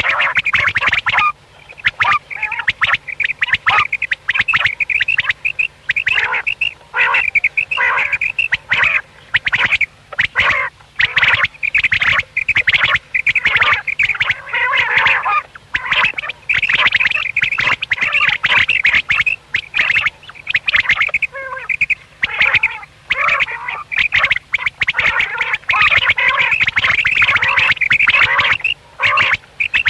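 Common quail calling: quick, repeated calls with barely a pause between them.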